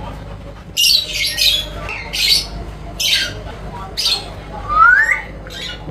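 Indian ringneck parrot squawking: a run of six or seven short calls, about one a second, one near the end sliding upward in pitch.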